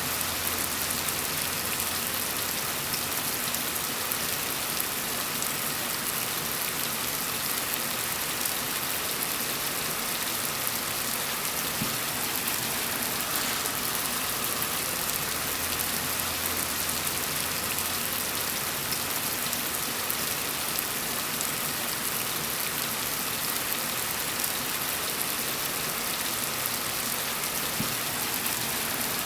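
Steady rain falling, an even hiss of many drops with faint individual patters on a surface.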